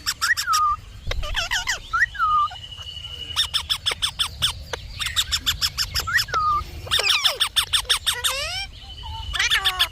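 Indian ringneck parakeet calling: rapid runs of sharp clicking chatter, short falling whistled notes and a couple of held, steady whistles.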